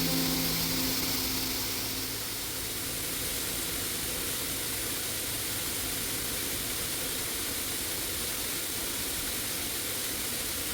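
Steady rush of a waterfall, an even roar of falling water. Background music fades out in the first two seconds.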